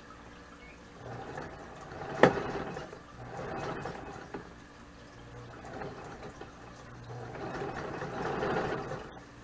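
Vintage Singer sewing machine stitching in several short runs, each starting and stopping again, with one sharp click a little over two seconds in.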